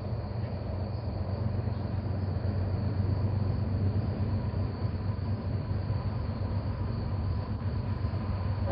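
An approaching train, with a low rumble from its locomotive and rolling stock that grows steadily louder.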